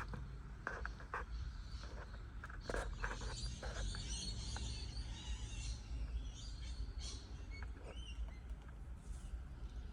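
Birds chirping, with scattered short knocks and taps in the first few seconds over a steady low rumble.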